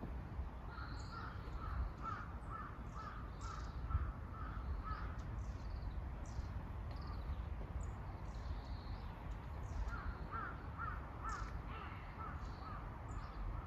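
A crow calling in two bouts of quick repeated caws, about two a second, with small birds chirping higher up over a low outdoor background.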